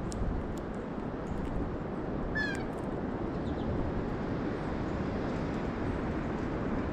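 A single short, harsh bird call with a slightly falling pitch about two seconds in, with a few faint ticks earlier, over a steady low background rumble.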